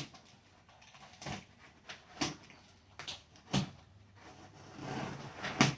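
Cardboard box being cut open with a knife and handled: a string of sharp knocks about a second apart, with a short scrape just before the loudest knock near the end.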